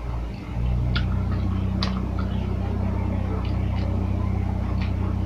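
A steady low motor hum, like an engine running nearby, starts suddenly and grows louder under a second in. Over it come a handful of short sharp clicks and crunches of eating.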